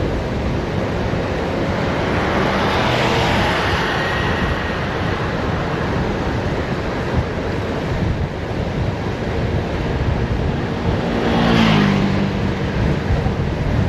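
Heavy wind rushing over the microphone of a bicycle coasting downhill at speed. A vehicle passes about three seconds in, and another goes by near the end, its engine note dropping as it passes.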